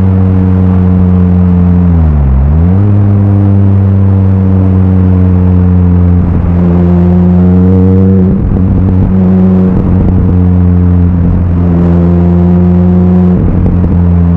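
Mini Cooper S R53's supercharged 1.6-litre four-cylinder engine through a stainless steel cat-back exhaust, droning loudly at steady revs. About two seconds in the revs dip briefly and come straight back up.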